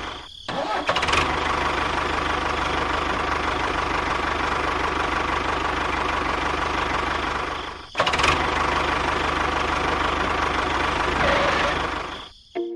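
An engine runs steadily at a constant speed. The sound drops out sharply for a moment just after the start and again about eight seconds in, then resumes at the same level.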